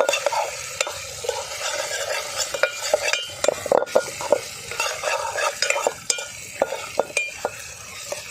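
Quail pieces sizzling as they fry in hot oil, while a spatula stirs ginger-garlic paste through them, with frequent scrapes and knocks against the pan.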